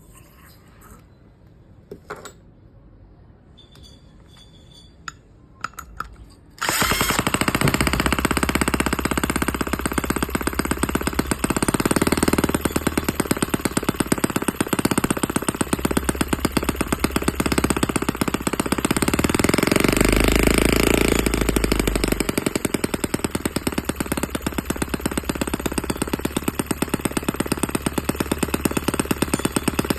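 A RETROL 3.6cc miniature single-cylinder four-stroke gasoline engine. After a few faint clicks, it starts suddenly about a quarter of the way in and runs loudly with a rapid, even firing beat to the end.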